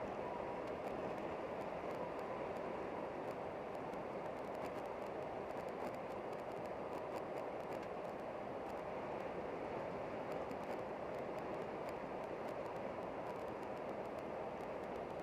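Steady running noise of the Channel Tunnel truck shuttle train, even throughout, with faint light clicks scattered over it.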